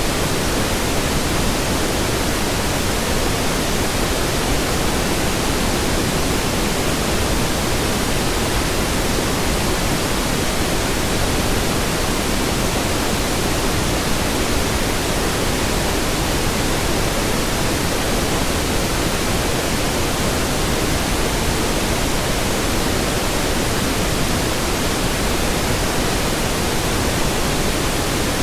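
Steady pink noise: an even hiss across the whole range, unchanging in level.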